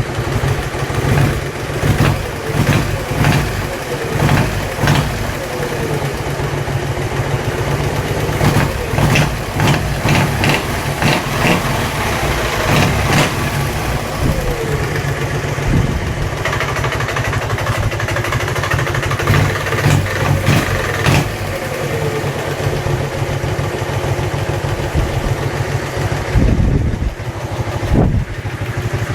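Dnepr-11 motorcycle's flat-twin engine idling and revved up in several short throttle blips, running with a knock that the owner could not trace even after opening the engine.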